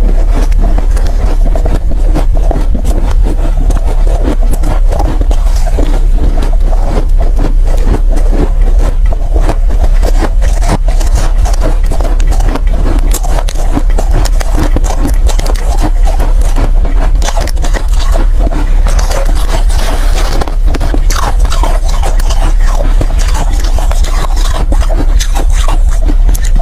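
Soft, powdery ice being bitten and chewed close to the microphone: many rapid crunches with no break, over a steady low hum.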